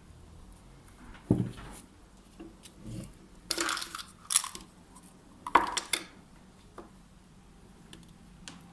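Light clatter of hands working on a bicycle hub: a knock about a second in, then short bursts of metal clinks and scraping as the hub parts and bearing balls are handled, with a few small ticks between.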